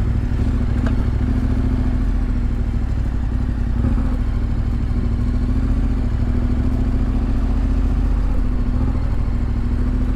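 KTM 1290 Adventure's V-twin engine running at a steady, unchanging note with a low rumble underneath.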